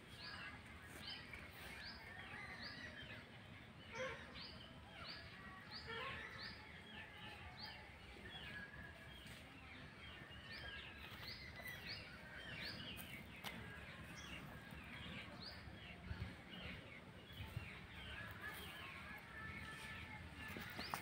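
Birds chirping in the background: many short, quickly falling calls repeated over and over, above a faint low rumble.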